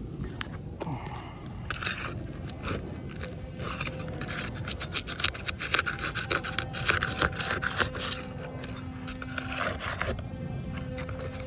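Asphalt roof shingles being scraped and pried at to work them loose, in irregular rasping strokes that come thickest in the middle and die down near the end.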